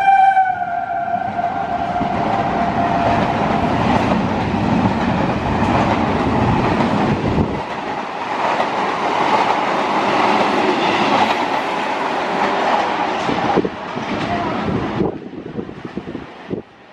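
Suburban EMU local train passing through at high speed: its horn sounds at the start and slides down in pitch as the front goes by, then the coaches rush past with a clatter of wheels over rail joints for about a dozen seconds before the sound drops away near the end.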